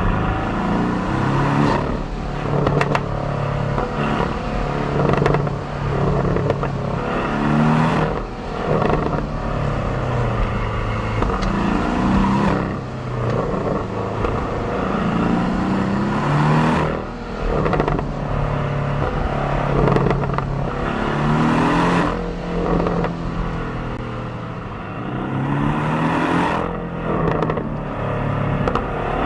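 Stock exhaust of a 2018 Porsche 718 Cayman's turbocharged flat-four, heard from the rear bumper blended with cabin sound. It repeatedly climbs in pitch under acceleration and drops back at each shift or lift-off, many times over.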